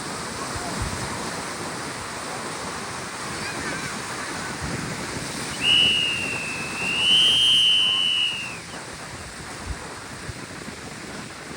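Steady wind and surf noise, broken near the middle by one long high whistle lasting about three seconds, its pitch dipping then rising slightly before it stops.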